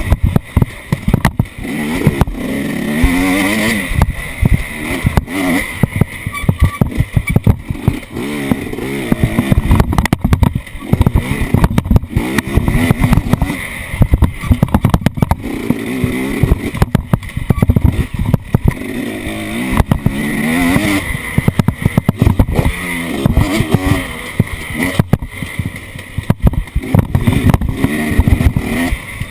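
Off-road vehicle engine running and revving up and down again and again as it drives a rough trail, with many sharp knocks and rattles from the bumps.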